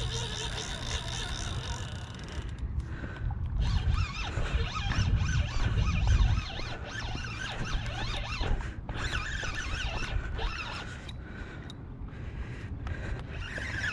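Close rustling and scraping, with dull heavy thumps about four to six seconds in, while insects trill during the first two seconds.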